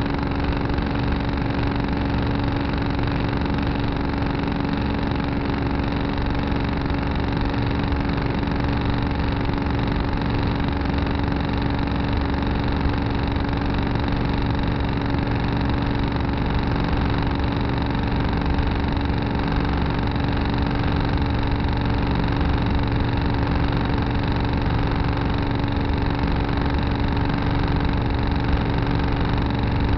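Tractor engine running steadily at an unchanging speed, heard close up from the tractor's dash camera.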